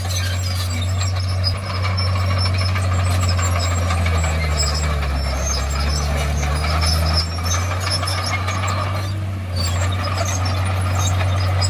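Komatsu D51PX bulldozer's diesel engine running steadily under work. Its note drops lower for about three seconds near the middle, then rises again, with light scattered ticking and clatter above the drone.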